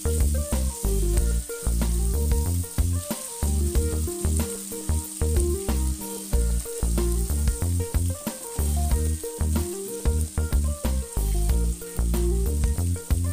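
Salted shark pieces sizzling as they fry in hot oil in an aluminium wok, stirred with a spatula. Background music with a heavy bass line plays over it and is the loudest sound.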